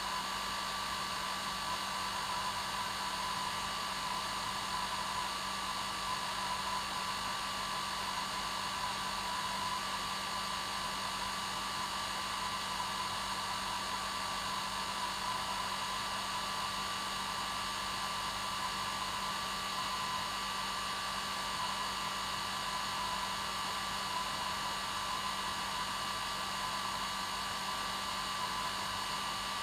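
Hair dryer running steadily: an even rush of air with a constant motor hum, used as white noise to lull a baby to sleep.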